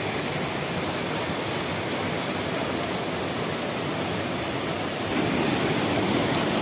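Waterfall in full flow after rain: a steady rushing hiss of falling water that gets louder about five seconds in.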